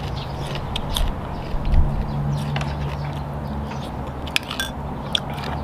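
Close-up chewing of a crunchy raw green vegetable, with scattered sharp crunches and mouth clicks over a steady low hum.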